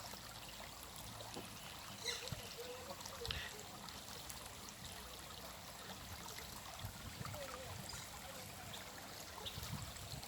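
Steady running water, like a small stream, with a couple of faint clicks about two and three seconds in.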